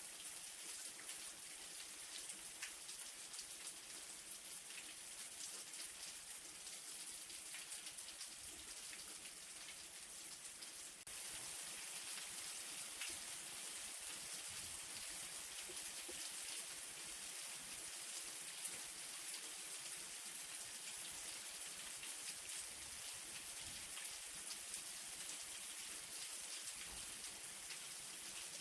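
Light rain falling steadily, a soft even hiss with individual drops ticking through it. It steps up slightly in loudness about eleven seconds in.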